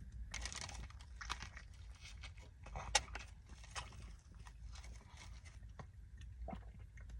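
A person chewing and biting food close to the microphone, in irregular mouthfuls, with one sharp click about three seconds in.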